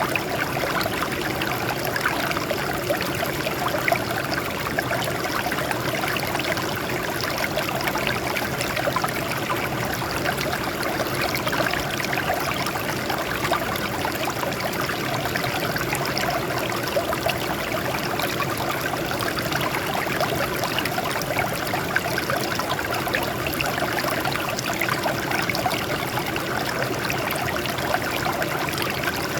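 Water flowing and splashing over rocks in a steady, continuous stream.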